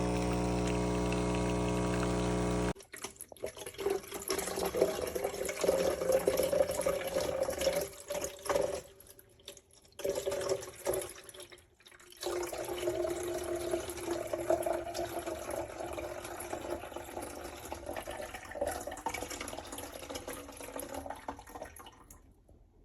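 Espresso machine pump buzzing steadily, cutting off suddenly about three seconds in. Irregular running and gurgling water follows, with two short breaks, and fades out near the end.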